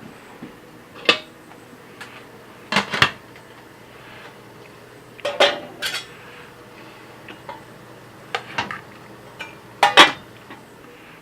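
Cutlery clinking against a plate or dish: sharp, irregular clinks every second or two, some in quick pairs, with a short ring after each.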